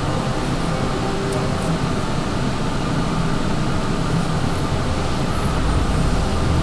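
Steady rushing background noise with a low hum, like a running machine.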